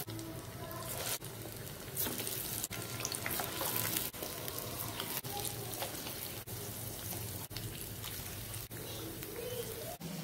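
Sweet corn vadas deep-frying in hot oil in a pan: a steady sizzle of bubbling oil, broken by several brief gaps.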